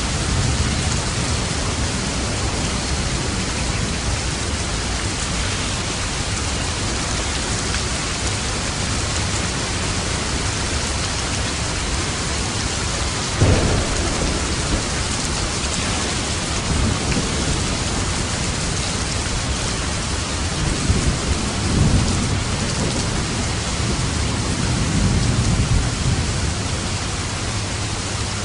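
Steady heavy rain hissing, with thunder: a sharp crack about halfway through, then rolling rumbles in the later part.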